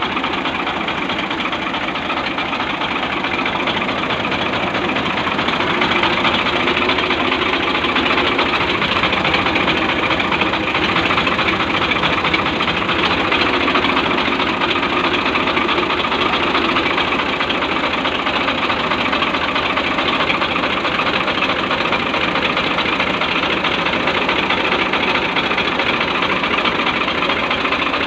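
Diesel engine of a 2006 Al-Ghazi 65 HP tractor running steadily at idle, a little louder from about six seconds in.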